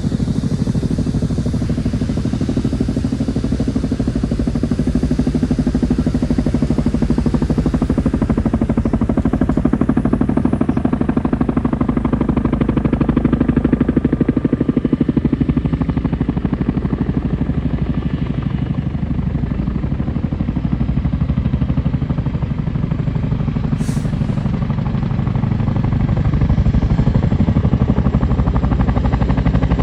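Boeing CH-47 Chinook tandem-rotor helicopter running, its rotors giving a loud, steady, rapid low chop. A brief sharp click comes about 24 seconds in.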